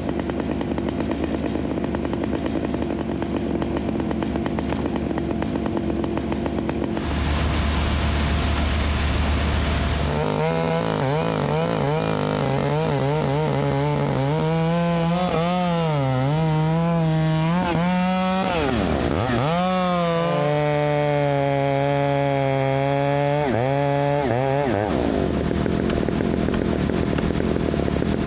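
A chainsaw running, steady at first, then getting louder about seven seconds in. From about ten seconds in its engine pitch rises and falls again and again as it revs up and drops back, with a couple of deep drops toward idle.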